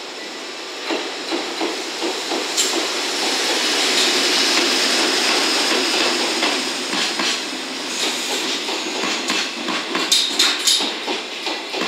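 Freight train of Chiki 5500 flat wagons loaded with long rails, hauled by an EF65 electric locomotive, rolling past with a steady hiss and rumble of wheels on rail. Sharp metallic clicks and clanks come thicker in the last few seconds.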